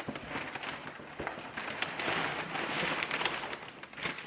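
Tissue paper and packing paper rustling and crinkling as a shipping box is unpacked by hand, loudest about two to three seconds in.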